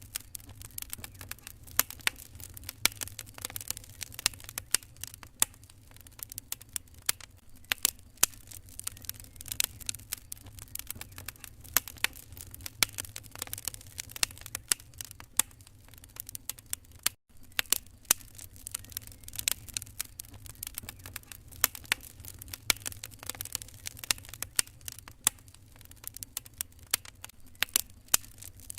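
Wood fire crackling in a fireplace: dense, irregular pops and snaps with a low steady hum beneath. The sound briefly cuts out about seventeen seconds in.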